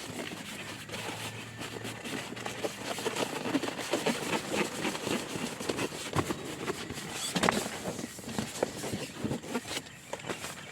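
Irregular rustling with many small knocks and clicks, busiest in the middle, with one sharper knock about seven and a half seconds in.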